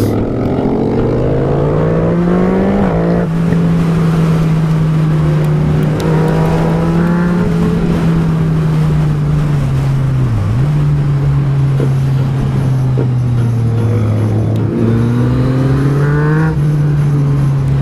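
Yamaha MT-09 SP's inline three-cylinder engine with an Akrapovič exhaust, heard onboard while riding: the revs climb and drop sharply with a gear change about three seconds in, hold a steady pull, dip briefly midway, then climb and drop again with another shift near the end.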